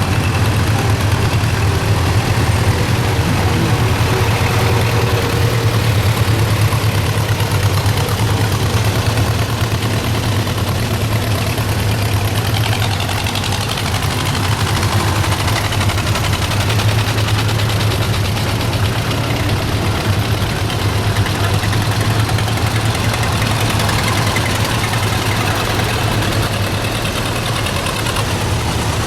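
Engine of a veteran vehicle running steadily at a low, even speed, with a strong low throb that holds throughout.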